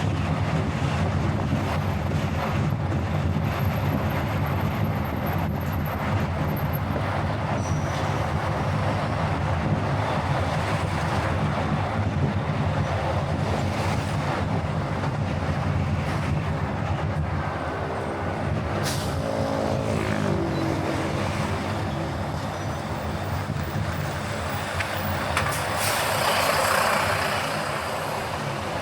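Steady road and engine noise of a car driving, with a brief rise and fall in pitch a little past the middle and a louder rush of noise near the end.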